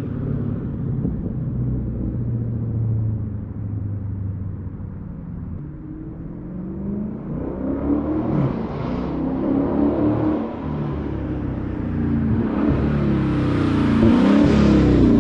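Dodge Charger Scat Pack's 392 (6.4-litre) HEMI V8 through a 3-inch straight-through catback exhaust with no mufflers or resonators. It runs low and steady at first, then its revs rise and fall from about halfway, building to the loudest, highest revs near the end.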